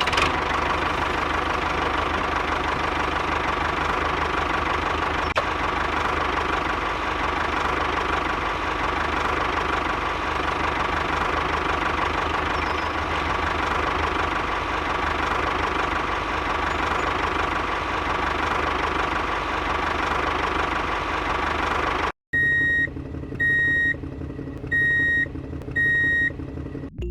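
A small engine running steadily with a fast, even knock for about twenty seconds, then cutting off abruptly. Four electronic beeps follow, about a second apart, over a low hum.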